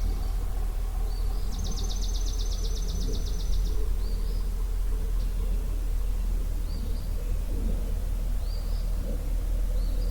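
Dawn birdsong over a steady low rumble. One songbird sings a rapid, even trill of about eight high notes a second, lasting a couple of seconds. Short upslurred chirps recur every second or two.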